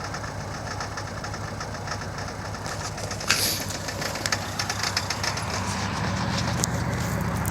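2000 Saturn SL2's 1.9-litre four-cylinder engine idling roughly and missing, the sign of a misfire that new plug wires and a new #1 spark plug have only partly cured; the owner suspects the remaining spark plugs or coil packs. A sharp click comes about three seconds in, and the engine note grows louder and deeper near the end.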